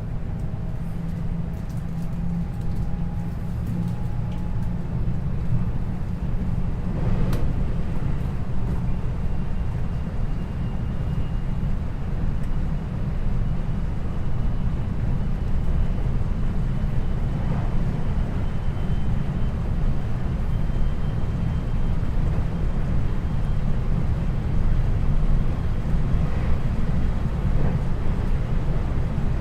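Running noise heard inside a JR West 521 series electric train car (KuMoHa 521-24) at line speed: a steady low rumble of wheels on rail, with a faint high steady whine in the second half.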